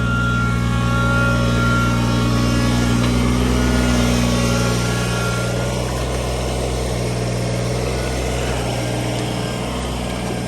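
Small Kubota tractor's diesel engine running steadily with a low hum, under load as it drags a car's engine out.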